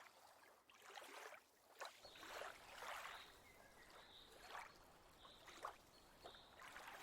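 Faint water lapping and splashing, in soft, irregular swishes about once a second.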